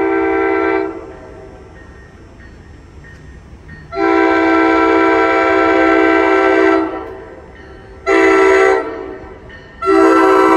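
NJ Transit train's air horn, several notes sounding together, blowing the grade-crossing pattern. A long blast ends about a second in, then comes another long blast, a short one, and a final long blast starting near the end.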